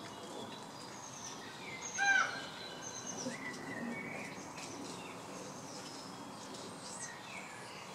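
Birds chirping and calling over a steady outdoor hush, with one louder, short call that drops slightly in pitch about two seconds in.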